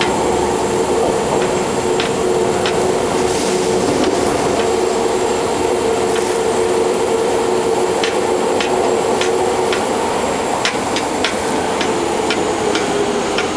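Fukuoka City Subway N1000-series train running, with a steady whine over the running rumble: the abnormal, jet-like noise that some N1000 units make. Scattered sharp clicks come from the wheels on the track.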